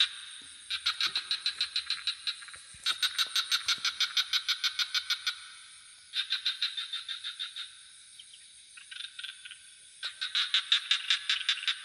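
Frogs calling in rapid pulsed trills, about eight pulses a second, in bouts of a couple of seconds with short gaps between them, over a steady high insect drone.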